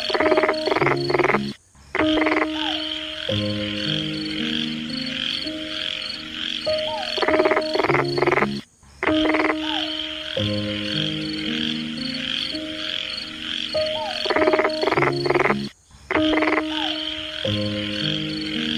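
A chorus of frogs croaking in bursts of rapid pulses over a steady high trill. The sound repeats about every seven seconds and briefly drops out between repeats.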